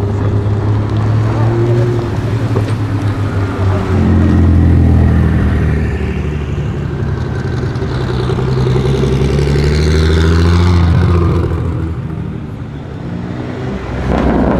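Engines of modified performance cars running at low revs, a deep steady rumble that shifts in pitch about four seconds in and eases off near the end, followed by a louder, rougher burst of engine noise.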